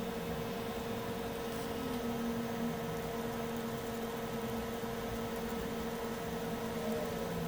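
Steady hum of a small fan or motor running, with a constant tone over an even hiss.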